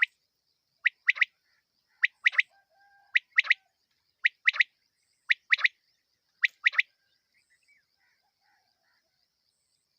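Quail (batair) calling: six rapid three-note phrases, one short note followed by a quick pair, repeated about once a second, then falling silent for the last few seconds.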